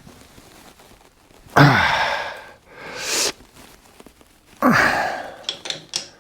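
A man's heavy sighs of exertion while straining on a seized nut: two long exhales that fall in pitch, with a sharp hissing breath between them. A few light clicks follow near the end.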